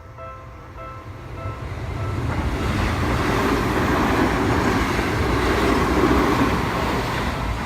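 A Seibu Shinjuku Line train passing over a level crossing: its rumble and wheel noise swell from about two seconds in, hold, then ease off near the end. The crossing's warning bell dings repeatedly at the start and is drowned out as the train goes by.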